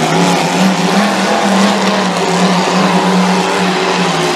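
Derby trucks' engines running hard at steady high revs, loud, over a wide rush of noise.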